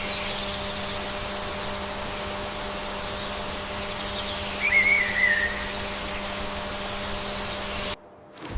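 Steady hiss of outdoor ambience with a low steady hum under it. About five seconds in comes one short warbling, whistle-like call. The sound cuts off suddenly just before the end.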